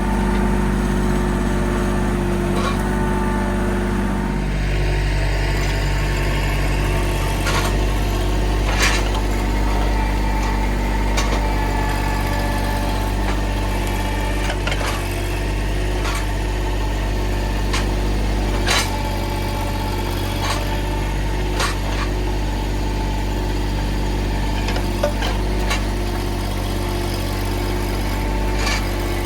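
Mahindra tractor's diesel engine running steadily, its note dropping about four seconds in, with occasional short knocks.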